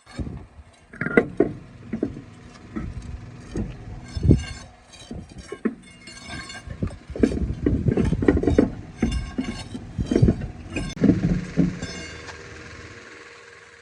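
Irregular knocks and metallic clanks, some ringing briefly, coming thick and fast around the middle and dying away near the end.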